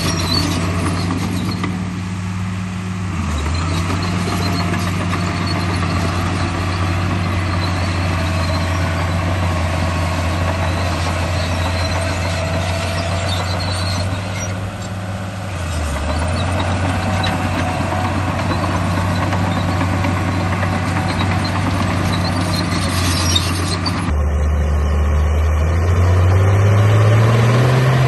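Bulldozer engine running steadily at a low idle, dipping briefly twice. Near the end it rises in pitch as it revs up.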